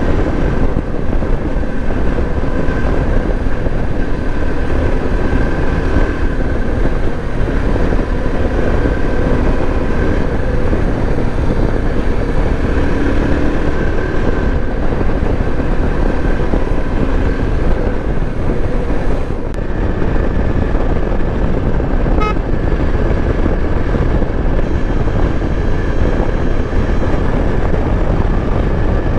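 Yezdi Adventure's single-cylinder engine running steadily at highway speed, with heavy wind rush on the microphone. The level dips briefly about two-thirds of the way in.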